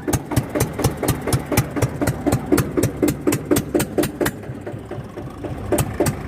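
Eicher 241 tractor's single-cylinder diesel engine running at low revs, with an even beat of about five knocks a second. The beat thins out briefly about four and a half seconds in, then picks up again.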